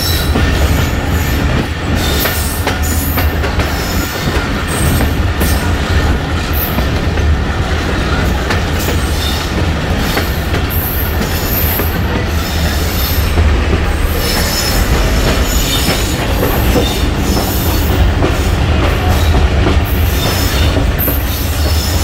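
Passenger train running along the track: a steady low rumble with the wheels screeching on and off.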